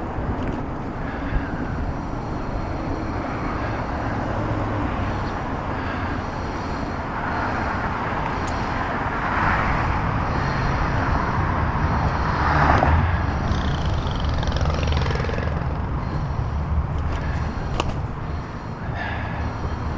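Steady wind and road rumble heard from a moving bicycle, with traffic noise swelling to a peak about thirteen seconds in, as a vehicle passing by would.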